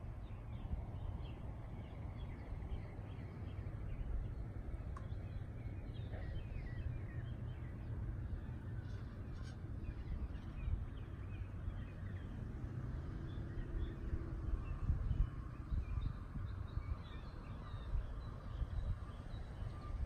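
Outdoor ambience: birds chirping and calling here and there over a steady low rumble.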